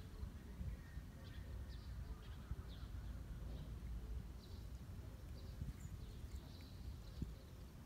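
Outdoor background of scattered short, high bird chirps over a low, steady background noise, with a single brief knock near the end.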